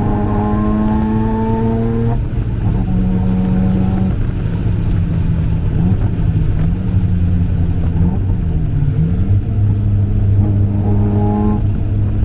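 Mazda RX-7 FD3S's turbocharged 13B rotary engine running hard on track. It rises in revs for about two seconds and drops abruptly, holds with a few brief dips, then pulls up again near the end.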